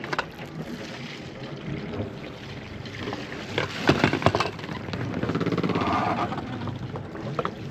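Sailboat's inboard engine running, with water noise and a cluster of sharp knocks about four seconds in; the engine grows louder for a moment about five seconds in.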